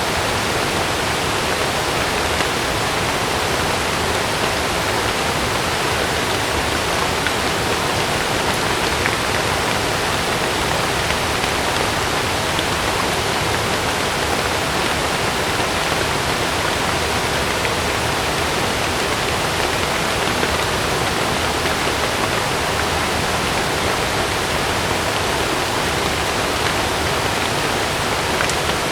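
Heavy rain falling steadily on a camping tent, an even, unbroken hiss with no thunder.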